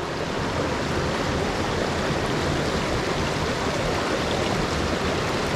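Mountain stream rushing over rocks, a steady even noise of flowing water.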